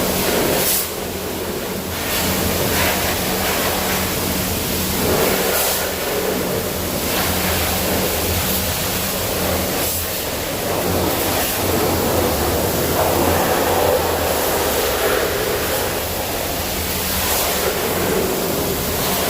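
High-pressure water jet spraying against a car's underbody: a loud, steady hiss that swells and eases as the spray moves, over a low steady hum.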